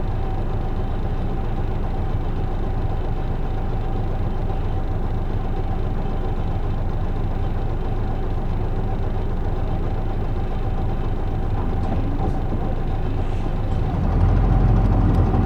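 Isuzu Erga city bus (PJ-LV234L1) running on the road, heard from inside the cabin: a steady low diesel and drivetrain rumble with a constant thin whine. The low rumble grows louder near the end.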